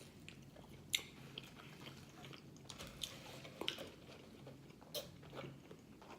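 Faint close-up chewing of food, with a handful of sharp, wet mouth clicks at irregular moments.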